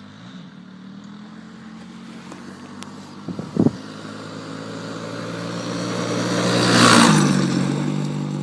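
Dirt bike engine running steadily and growing louder as it approaches, passing close about seven seconds in with a drop in pitch, then fading away. A short loud knock a little over three seconds in.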